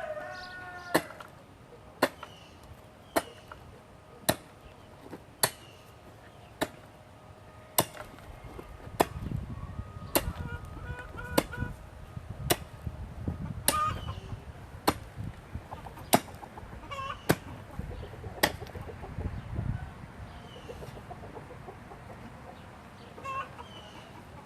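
Sharp knocks at an even pace, about one a second, over a quarter-minute, with a rooster crowing at the start and chickens clucking in between.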